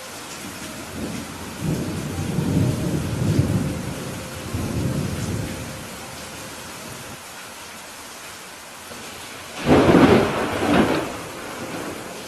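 Steady rain in a thunderstorm. Thunder rolls low for a few seconds near the start, and a louder, sharper thunderclap comes about ten seconds in.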